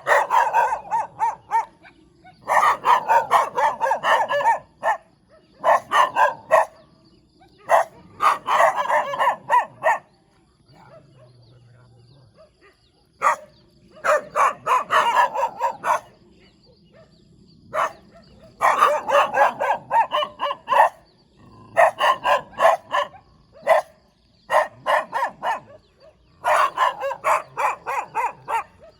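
Dog barking in repeated bouts of quick barks, each bout a second or two long, with short pauses between.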